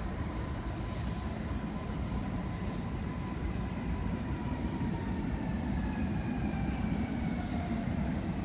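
Koleje Dolnośląskie passenger train pulling into the platform, a steady rumble with a whine that slowly falls in pitch as the train slows.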